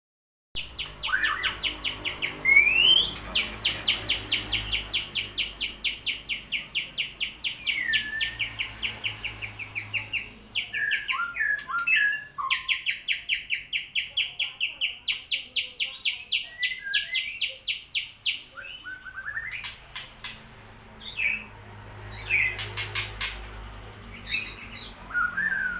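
Young white-rumped shama (murai batu) singing. Long runs of rapid repeated notes at about six a second are mixed with rising and falling whistles. After about eighteen seconds the song breaks into scattered, shorter phrases.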